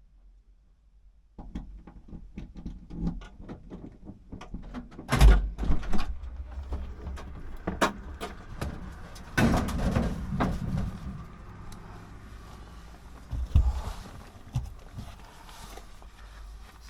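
A run of clicks and knocks that starts about a second in, with a few heavier thumps among them.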